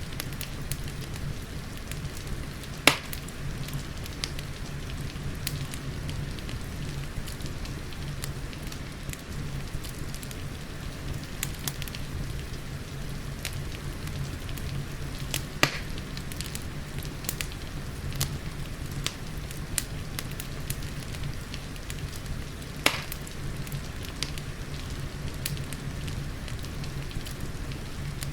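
Wood fire crackling with steady rain. Small crackles run throughout, and three louder pops stand out, a few seconds in, about halfway, and near the end.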